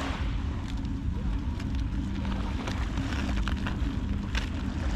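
Steady low outdoor rumble at the shore, with scattered crackling clicks and a faint steady hum underneath.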